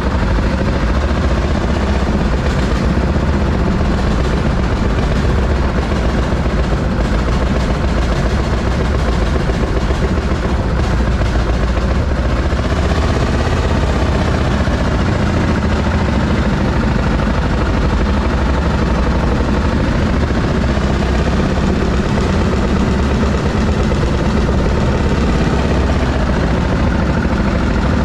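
M19 railroad speeder's engine running steadily as the motorcar travels along the track.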